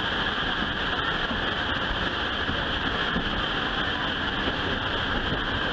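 Steady running noise of a moving excursion train, heard from aboard the car: a continuous hiss and rush with no distinct beats or whistle.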